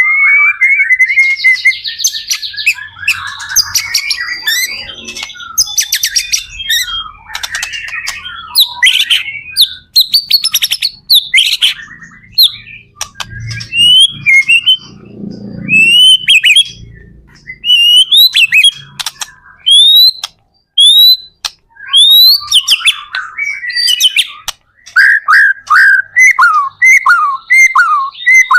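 White-rumped shama (murai batu) in full, continuous song: a fast, varied run of loud whistles, chirps and rattling trills. Near the end it repeats a short falling note about twice a second.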